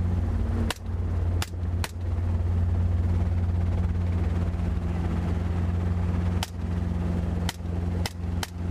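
Seven rifle shots fired from a helicopter at a running feral hog: three in the first two seconds and four more in the last two and a half seconds. Between and under them runs the helicopter's steady rotor and engine drone.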